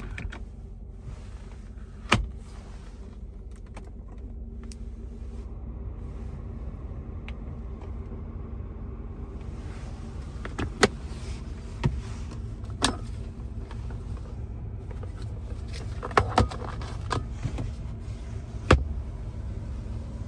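A 1994 Mercedes-Benz S420's V8 idles steadily while sharp clicks of switches and buttons sound every few seconds. About halfway through, an electric accessory motor joins in, running for several seconds.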